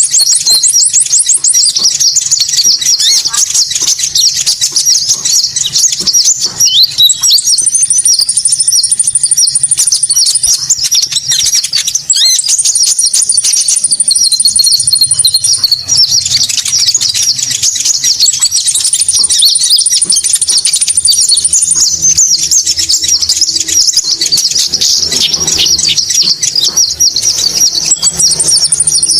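Konin birdsong played as a lure call: a dense, loud run of high chirps and twitters, with a thin, buzzy high trill laid over it that comes back roughly every six seconds and lasts about two to three seconds each time.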